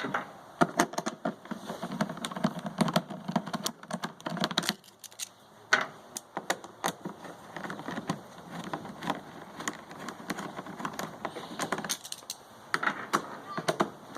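Irregular clicking and rattling of a screwdriver working screws out of a portable generator's plastic casing, with the screws and tool being handled. There are brief pauses twice.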